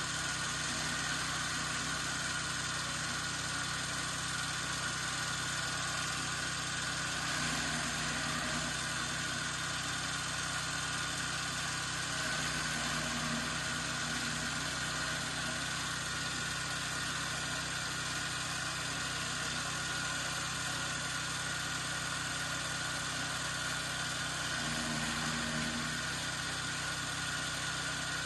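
Chaff cutter machine running steadily at an even speed, its note shifting briefly three times.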